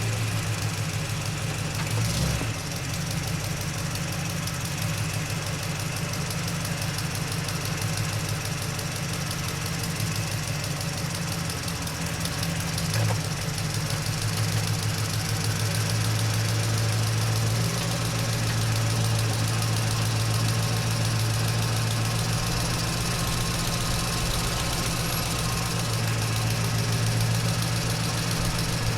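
Truck engine running steadily as the truck drives, a low, even drone that holds one pitch throughout, with a brief knock about two seconds in.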